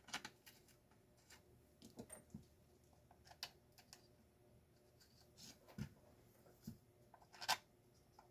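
Faint, scattered clicks and taps of small plastic parts being handled, with a sharper click near the end.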